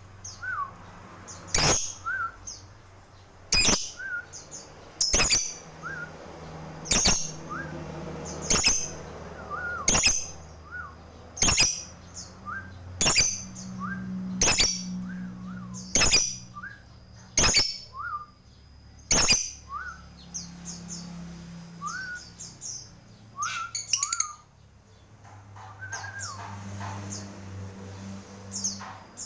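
Lovebird chirping: short high chirps, with a loud sharp call about every one and a half to two seconds for the first twenty seconds, then softer, irregular chirps. A low steady hum runs underneath.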